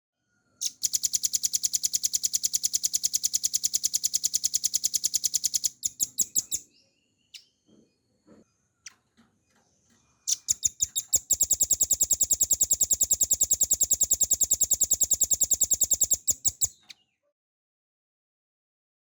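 Velvet-fronted nuthatch (rambatan paruh merah) singing two long, rapid rattling trills of about six seconds each, with a few short chips in the gap between them.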